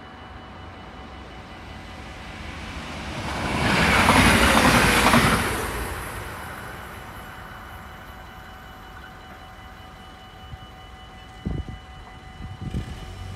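Passenger train passing the level crossing: its rush builds to a loud peak about four seconds in and fades away over the next few seconds. Under it the crossing's warning bell sounds as a steady ring. Near the end there are a couple of sharp knocks as the barriers start to lift.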